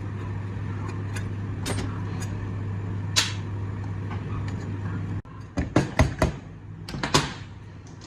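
A steady low hum runs with a few sharp knocks over it, then cuts off suddenly about five seconds in. A quick series of sharp clicks and knocks follows.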